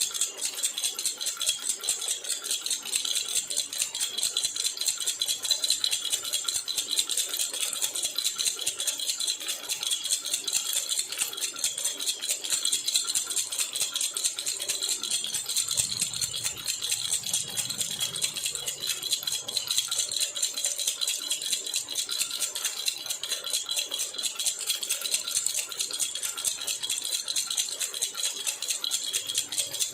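Jhunjhuna baby rattle shaken quickly and without pause, a steady, bright, fast jingling rattle.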